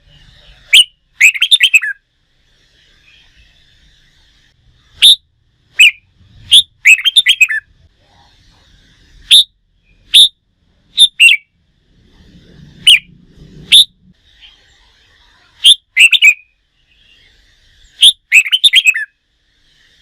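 Red-whiskered bulbul song: short, loud, whistled phrases of a few quick notes, repeated every few seconds, with fainter chattering between them.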